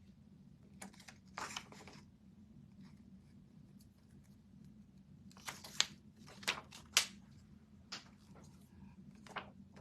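Craft materials being handled on a work table: a series of short crinkling, rustling noises, with a cluster of sharper ones past the middle.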